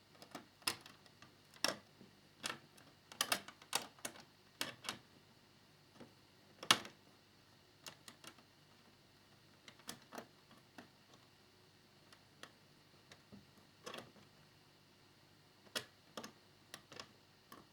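Faint, irregular small clicks and taps of tiny screws, a small screwdriver and plastic fairing parts being handled while assembling a scale model motorcycle. The loudest tap comes about seven seconds in.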